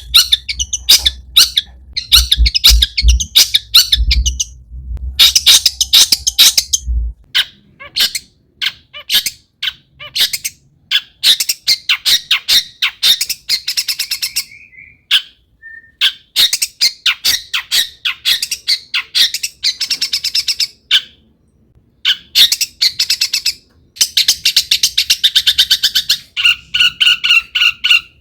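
Long-tailed shrike singing a loud, chattering song rich in mimicked calls. The song comes in bursts of rapid harsh notes broken by short pauses, with a few clear whistled notes near the end.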